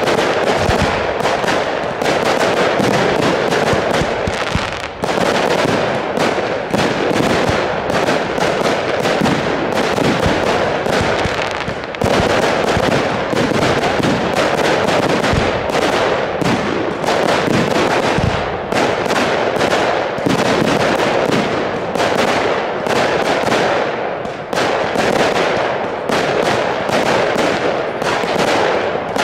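Aerial fireworks from consumer firework batteries firing a dense, unbroken barrage: rapid launch thumps and bursting bangs overlapping with crackle.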